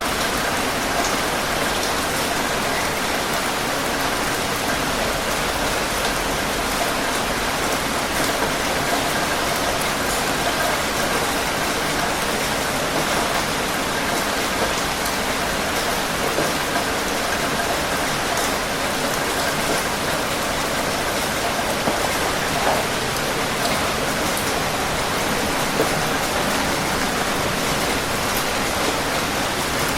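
Steady heavy rain falling, a constant even hiss with scattered drop ticks.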